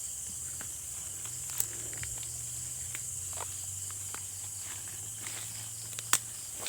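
A steady, high-pitched chorus of night insects, with scattered light clicks and rustles; two sharper clicks come about one and a half seconds in and about six seconds in.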